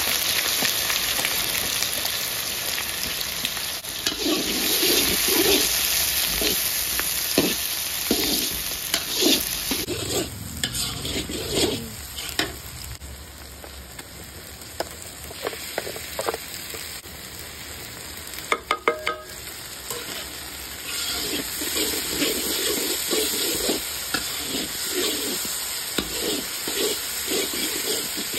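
Sliced onions sizzling in hot groundnut oil in a large iron kadai while a metal spatula stirs and scrapes the pan. The sizzle is loudest in the first ten seconds, then drops to a quieter frying under separate scraping strokes, with a quick run of sharp taps about two-thirds of the way in and steady, rhythmic scraping near the end.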